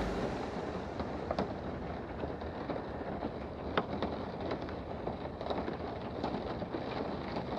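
Steady wind and road noise of a motorcycle riding in the rain, with scattered light ticks.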